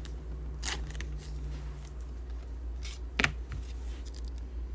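Trading cards and their packaging being handled: a few short rustles and clicks, the loudest about three seconds in, over a steady low hum.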